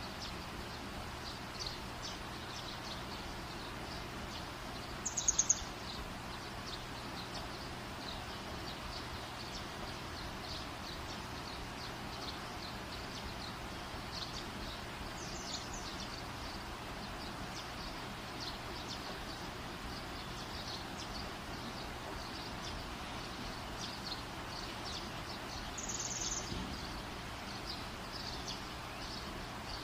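Small birds chirping repeatedly over a steady background hiss, with louder, brighter calls about five, fifteen and twenty-six seconds in.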